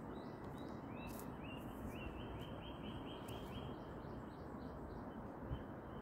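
A small bird giving runs of short, quickly repeated chirps, about four or five a second, from about a second in until midway and again near the end, over a steady outdoor background hiss.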